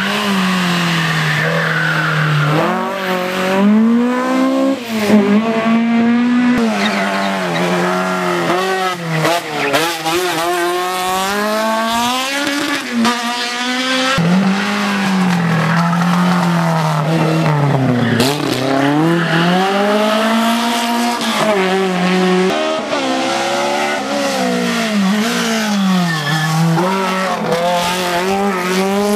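Rally car engine revving hard on a hill climb, its pitch climbing and dropping again and again as it goes through the gears and lifts for bends.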